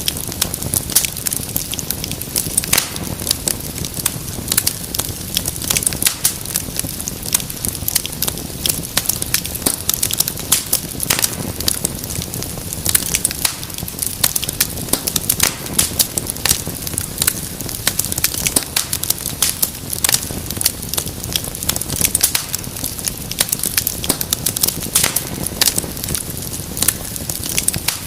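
Fire crackling steadily: a dense, irregular stream of sharp pops and snaps over a low rush of flame.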